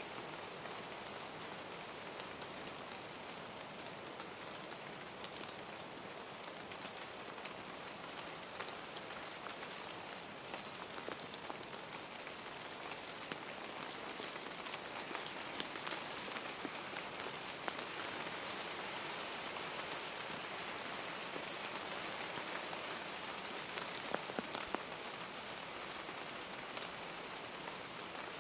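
Steady rain falling, an even hiss with many small drops ticking, a little heavier from about halfway through.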